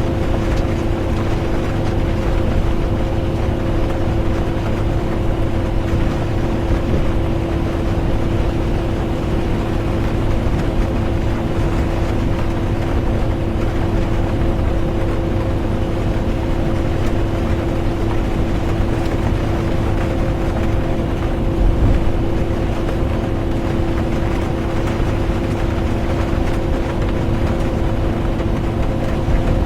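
Inside a moving bus: steady engine and road drone with a constant hum, under a wash of rain. A brief low thump comes about 22 seconds in.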